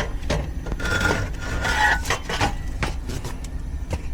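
Irregular knocks, clicks and clatter from hands handling hard parts, with a brief squeak or two about a second in. Under them runs the steady low hum of the air conditioner's indoor unit running.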